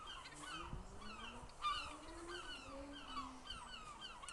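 A bird calling over and over in short, falling chirps, several a second.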